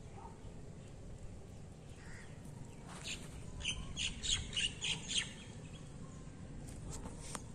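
A bird calling in a quick run of sharp, high chirps for about two seconds, starting about three seconds in, over a steady low outdoor rumble.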